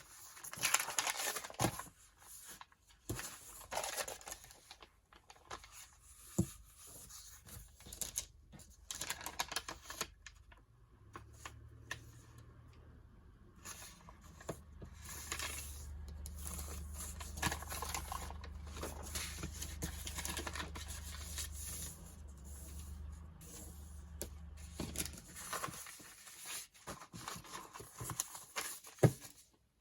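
Sheets of paper being handled: irregular rustling, tapping and light clicks as the papers are moved and arranged. A steady low hum comes in about ten seconds in and stops a few seconds before the end.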